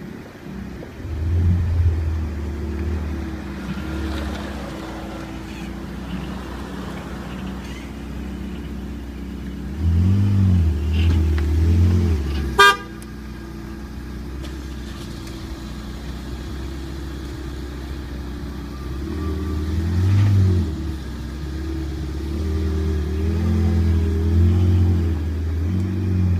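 Ferrari 488 GTB's twin-turbo V8 idling and being revved in several blips, its pitch rising and falling. There is one sharp crack about twelve and a half seconds in, after which it falls back to idle.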